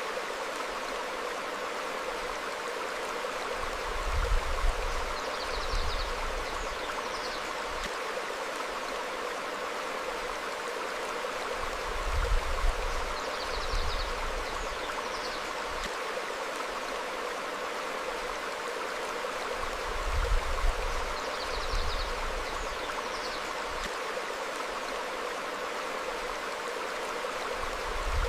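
Stream flowing over rocks, a steady rush of water, with faint short bird chirps high above it and a low rumble that swells briefly about every eight seconds.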